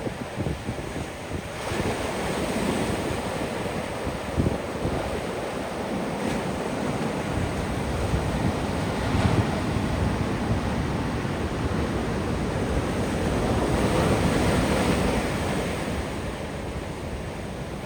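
Ocean surf washing onto a beach: a continuous hiss of breaking waves that swells and ebbs, building to its loudest surge near the end. Wind rumbles on the phone's microphone underneath.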